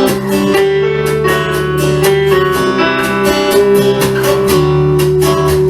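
Instrumental break in a country-style song: guitar strummed in a steady rhythm with sustained chords.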